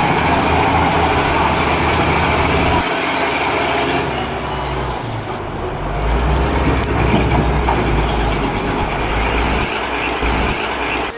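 Diesel engine of a narrow gauge locomotive running steadily, its low note changing about three seconds in and again about five seconds in.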